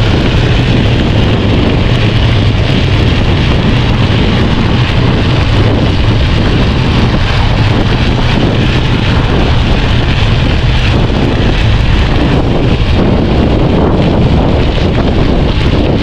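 Steady wind rumble on the microphone of a moving bicycle, with the low, steady hum of studded bicycle tyres rolling on the road, a sound the riders liken to a tank driving behind.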